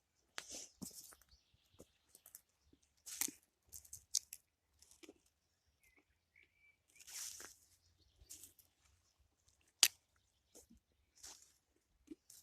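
Irregular rustling, crunching and tearing noises close by, in short bursts with gaps, with a brief high chirp about six and a half seconds in and one sharp click near ten seconds.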